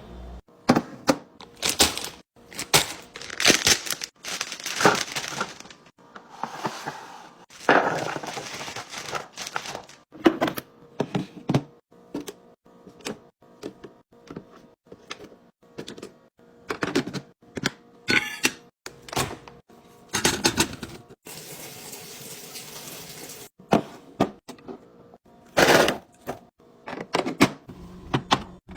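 Restocking sounds: a long irregular run of clicks, taps and knocks as items and containers are handled and set down, with a few stretches of rustling.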